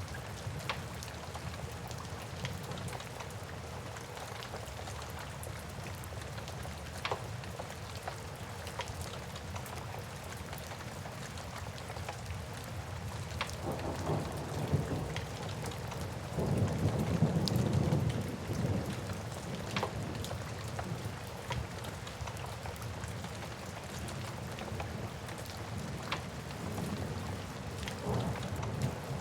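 Steady rain with a low rumble of thunder swelling up about halfway through, while a wood fire crackles with scattered sharp pops.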